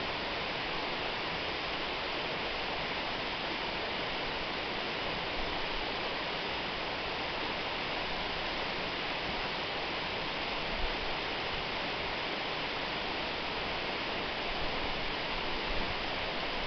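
Waterfall: falling water rushing steadily with an even hiss, no breaks or changes.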